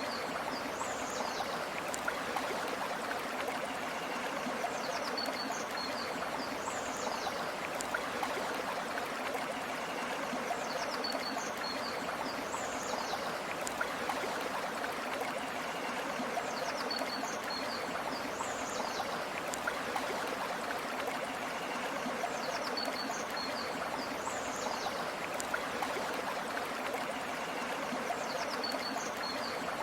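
Flowing river water, a steady even rush. A short high bird call repeats at even spacing about every six seconds over it.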